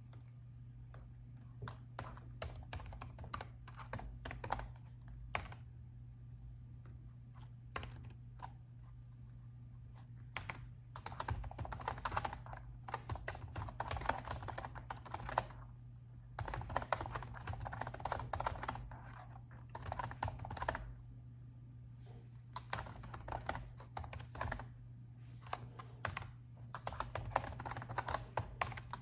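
Typing on a laptop keyboard: a few scattered keystrokes at first, then quick runs of key clicks broken by short pauses, over a steady low hum.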